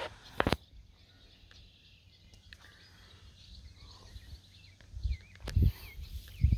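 Quiet outdoor ambience with faint bird chirps near the end and low rumbles of wind buffeting the microphone, plus a sharp click about half a second in.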